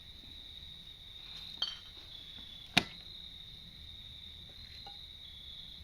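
Crickets chirping steadily, with two sharp clinks of dishes being handled, a light one and then a louder one about three seconds in, likely Corelle plates being set out.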